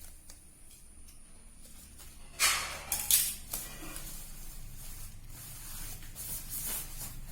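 Packaging rustling and crinkling as an accessory is unwrapped, with a loud burst of rustling about two and a half seconds in and softer rustles after it.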